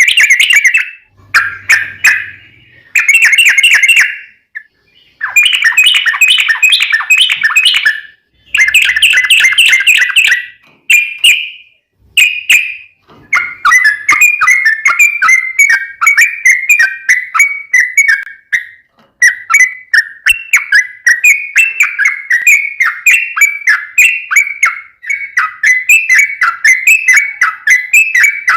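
Yellow-vented bulbul (trucukan) singing loudly. It gives bubbly, chattering phrases with short pauses between them, then, about halfway through, breaks into a long, unbroken run of quick repeated notes.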